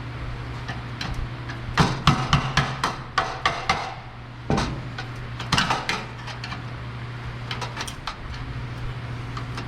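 Hammer blows on the steel of an old brazed-on radiator support bracket, which is holding fast. There is a quick run of about eight ringing metal strikes, then a few spaced, lighter ones. A steady low hum runs underneath.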